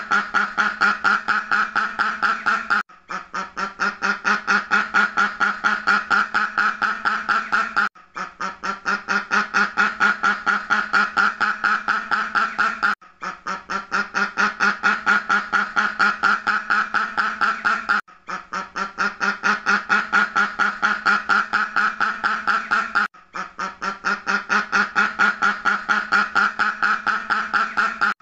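Duck quacking in a fast steady series, about five quacks a second. The same five-second stretch of quacks repeats as a loop, with a brief break each time it starts over.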